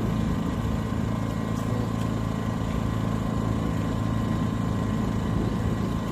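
Ducar 2.5 kW portable gasoline generator's engine running at a steady speed, an even, unchanging hum.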